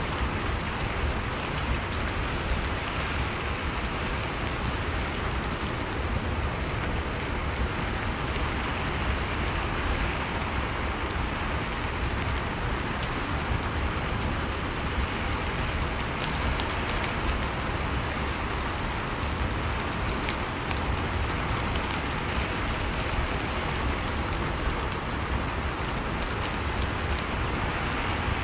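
Steady, even rain falling, with the patter of drops on a surface.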